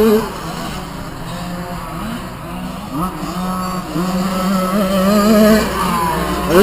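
Small two-stroke mini motocross bikes racing, their engines revving up and down through the gears with several bikes overlapping. It is loudest right at the start and again near the end.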